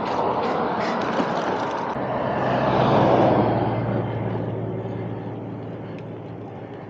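Road and wind noise from a moving vehicle, with a steady low engine hum. The noise swells to its loudest about three seconds in, then fades.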